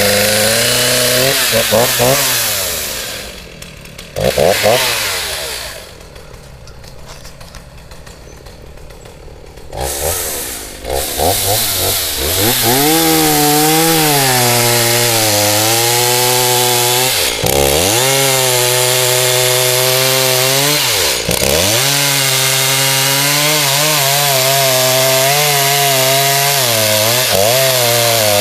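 Chainsaw felling a large pine, running at full throttle. It drops to a quieter idle for a few seconds, then revs back up and cuts steadily, easing off briefly twice.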